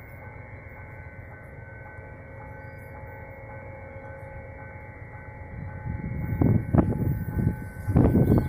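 An approaching train heard before it comes into view: a low rumble that grows louder from about six seconds in, swelling in uneven surges near the end. A faint steady high hum runs underneath.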